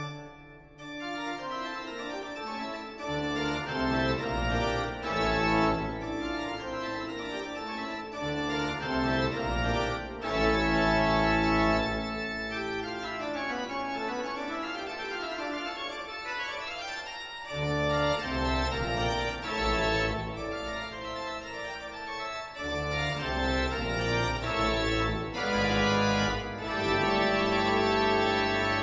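Background music: an organ playing sustained chords over low bass notes.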